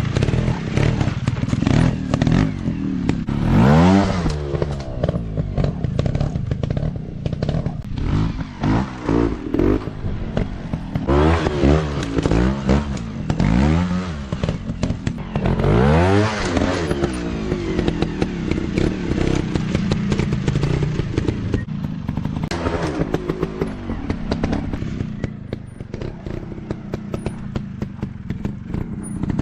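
Small dirt bike engines running and being revved hard again and again, the pitch rising and falling several times, with clattering and knocks from the bikes over rough ground.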